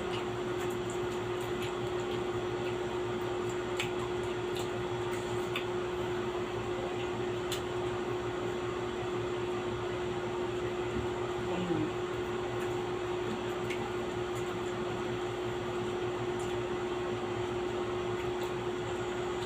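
Steady machine hum with one constant low tone, like a running fan, and a few faint clicks scattered through it.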